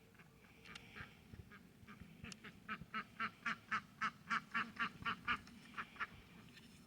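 A duck quacking in a rapid run of about fifteen quacks, about four a second, starting about two seconds in and loudest in the middle.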